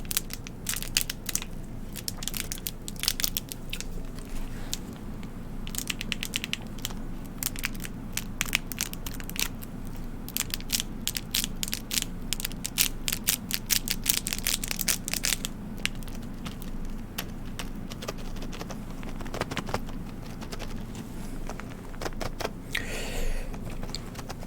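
Listerine Chewables packaging handled close to the microphone: rapid crinkling, crackling and small clicks, dense for about the first fifteen seconds and then sparser, over a steady low hum.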